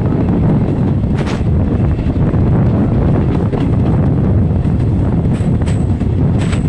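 Passenger train running at speed: a steady low rumble with wind buffeting the microphone, and a few short sharp clicks about a second in and again near the end.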